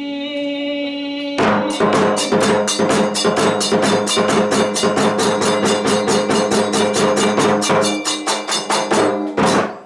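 A chanted, held vocal note ends about a second and a half in. Then kagura accompaniment of drum and clashing hand cymbals strikes up a fast, steady beat, which breaks off near the end.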